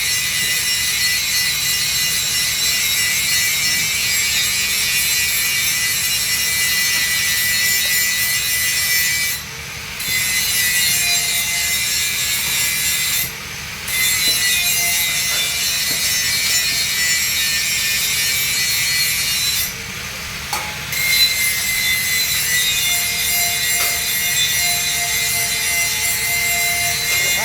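Arc welding on a 3-inch schedule 80 steel pipe: a steady crackling hiss that stops briefly three times and restarts.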